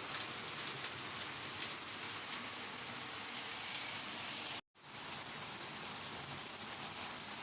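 Steady rain falling, an even hiss of drops. The sound cuts out completely for a split second about two-thirds of the way through, then the rain resumes.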